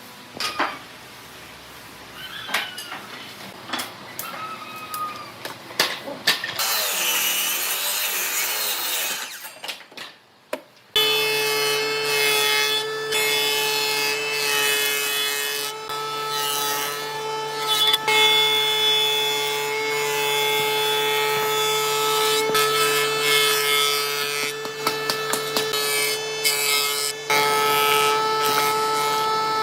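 Workshop woodworking sounds: a few sharp taps and knocks, then several seconds of rasping noise like wood being sawn or sanded by hand. About eleven seconds in, an electric woodworking machine cuts in and runs steadily with a constant whine, with clicks and knocks of wood being worked on it.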